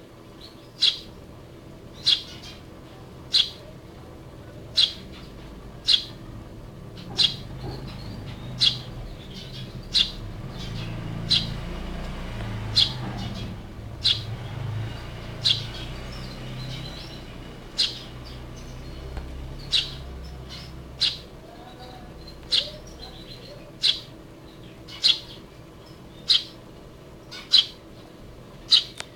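Hand-raised Eurasian tree sparrow chirping single sharp chirps over and over, about one every second and a bit. A low rumble sits underneath through the middle.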